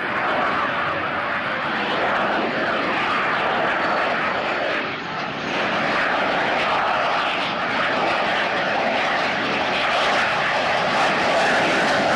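F/A-18 Hornet's twin jet engines, a loud steady rush of jet noise that dips briefly about five seconds in.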